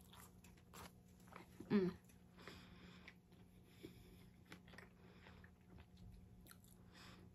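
Faint close-up mouth sounds of chewing a taco: soft wet clicks and smacks. A short vocal sound just under two seconds in is the loudest moment.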